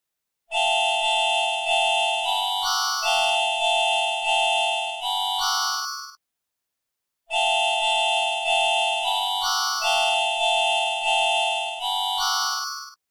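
Synthesized keyboard-like melody: a phrase of about ten short piano-like notes, played twice with a brief silent gap between, the same both times.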